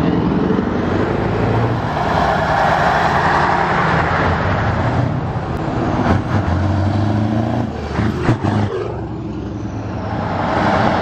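Scania trucks driving past with their diesel engines running. A louder passage about two seconds in, a few short knocks around eight seconds, then an engine note that falls in pitch as a truck goes by.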